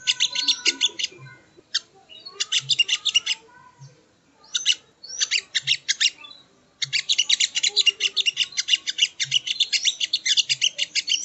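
Crimson sunbird (sogok ontong) song: fast runs of high, sharp chipping notes, broken by short pauses around two, four and six seconds in, then a long unbroken run from about seven seconds.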